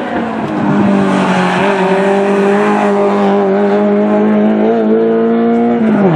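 A Renault Clio rally car's engine running hard at high revs as the car accelerates out of a corner. The engine note climbs steadily for most of the time, then drops sharply near the end.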